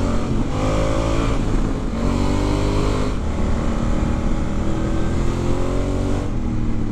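Honda Africa Twin's 998 cc parallel-twin engine, on its stock silencer, accelerating hard through the gears: the pitch climbs and drops back at each of about four upshifts, with wind rushing past.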